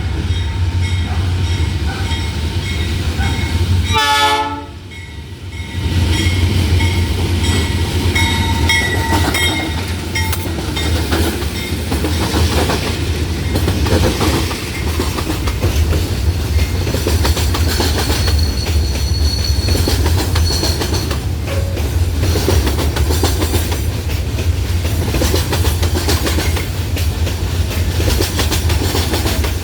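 Loaded freight train hauled by a pair of GE U20C diesel-electric locomotives going by, with a steady low rumble and the wagons' wheels clattering over the rail joints. The sound drops briefly about four seconds in.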